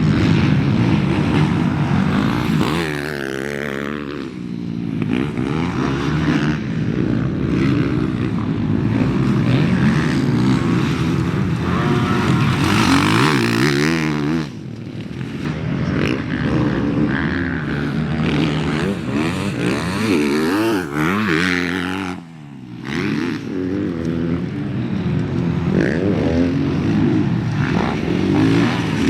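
Motocross race bike's engine revving up and down as it is ridden around the track, the pitch climbing and falling through throttle changes and shifts, on a break-in shakedown run. The throttle chops off sharply about 14 seconds in and again about 22 seconds in, then it picks back up.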